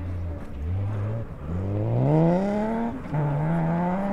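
BMW 3 Series rally car's engine under hard acceleration: a brief blip of throttle, then revs climbing steadily, a gear change about three seconds in, and the revs climbing again in the next gear.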